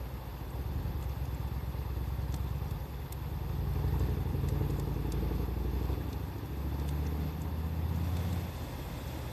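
Low engine rumble of a nearby motor vehicle, swelling and easing, over faint, sparse crackles from a wood fire.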